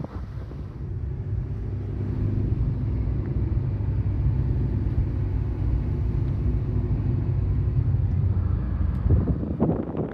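A motor vehicle's engine running with a steady low rumble, building over the first couple of seconds. About nine seconds in it gives way to gusts of wind on the microphone.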